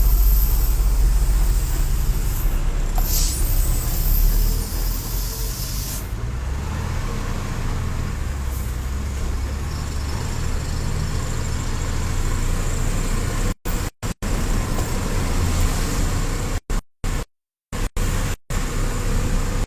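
Truck on the move: steady low engine and road rumble. The sound cuts out completely for moments several times near the end.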